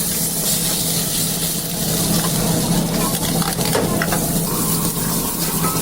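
Food sizzling as it fries in hot oil in a pan, a steady dense crackle with a few sharp clicks about three to four seconds in. A steady low hum runs underneath.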